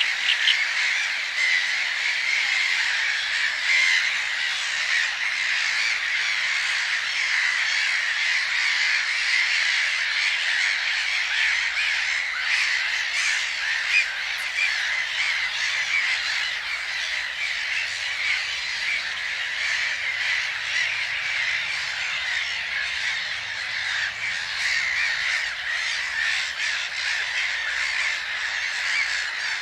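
A dense chorus of many birds calling over one another, with harsh squawking and cawing calls in a continuous chatter.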